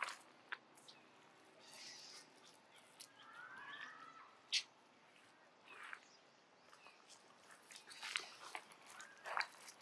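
Faint monkey sounds: scattered rustles and clicks as the animals move and handle things, with a short rising squeaky call about three and a half seconds in.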